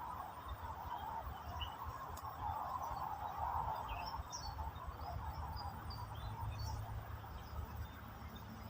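Outdoor ambience of small birds giving scattered short, faint chirps over a steady hiss and low rumble.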